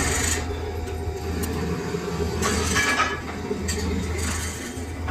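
Lathe running with a steady low hum, broken several times by short bursts of high scraping noise.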